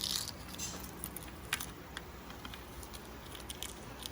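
Small clicks and light crackling of a hard-boiled egg's shell being cracked and peeled by hand, with a short hiss at the very start.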